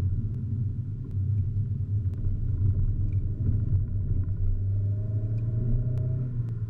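VW Scirocco driving, heard through a GoPro fixed to the car: a steady low rumble of engine and road noise.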